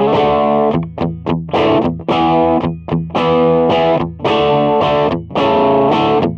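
Electric guitar played through the Donner MultiPad-100 multi-effects processor on its Overdrive II amp model: distorted chords strummed in short, choppy stabs, about a dozen in a row.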